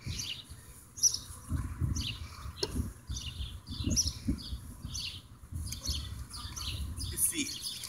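Small birds chirping repeatedly over a low rumble, with a sharp knock about a second in and another about a second and a half later as a metal pry bar is handled against the door.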